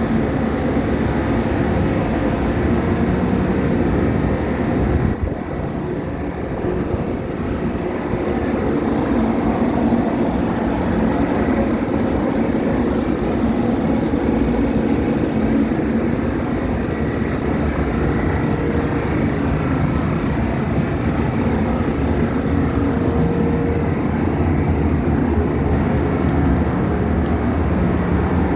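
Car ferry's engines droning steadily, heard on board as a loud low rumble with a steady hum; it eases slightly for a moment about five seconds in.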